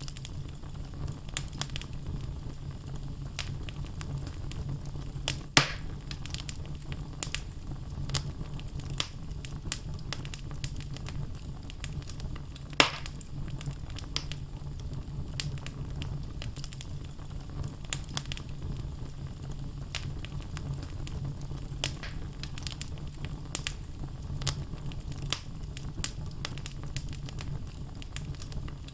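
Wood logs burning in a fireplace, crackling with a steady low rumble of flame and frequent small snaps. There are two louder pops, about six and thirteen seconds in.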